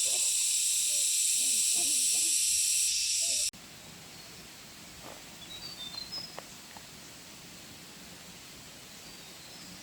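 Forest ambience: a loud, steady, high-pitched hiss that cuts off suddenly about three and a half seconds in. After it comes a much quieter outdoor background with a few faint, short high chirps.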